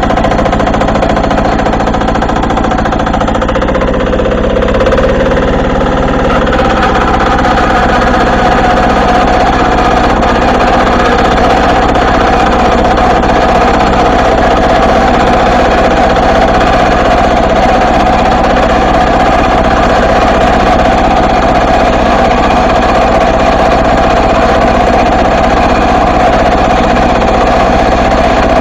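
Diesel walk-behind tractor engine running under load while pulling a plow. Its note shifts a few seconds in, then holds steady.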